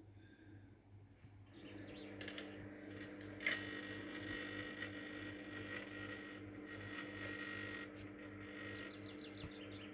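Microwave oven running at full power with a rock inside: a faint steady hum starts about one and a half seconds in, and about three and a half seconds in a louder buzz with a hiss cuts in, the sign that the magnetron has switched on. A few faint crackles come and go.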